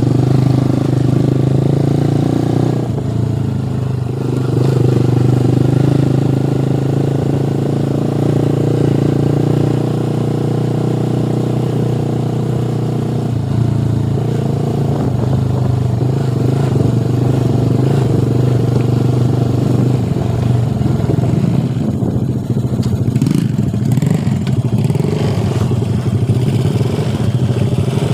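Motorcycle engine running steadily with a constant low hum under way, changing little in pitch.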